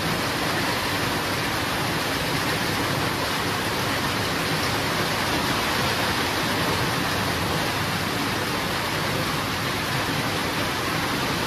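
Steady heavy rain falling, an even hiss with no thunder and no change in level.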